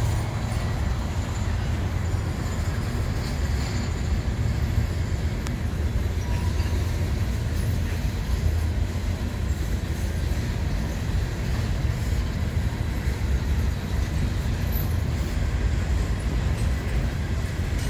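Empty coal hopper cars of a freight train rolling past on the rails, a steady low rumble of wheels and cars.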